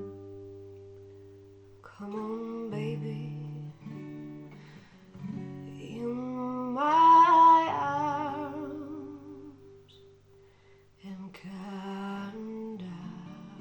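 Acoustic guitar playing a slow song, with a sung voice holding long wavering notes over it, loudest in the middle.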